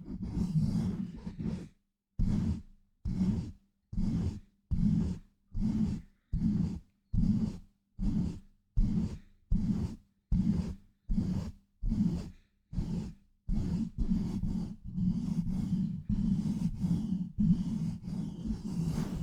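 Muffled rhythmic mic pumping: hands cupping and pushing over a microphone in evenly spaced whooshing pulses a little more than one a second, each cutting off to silence. Continuous rough rubbing and scratching on the mic comes before the pulses, and from about three quarters of the way through.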